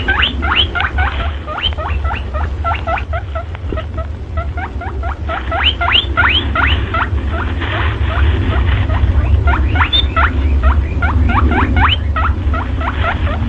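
Rabbit squeaking: a rapid, continuous run of short, high squeaks, each rising in pitch, several a second, over a steady low hum.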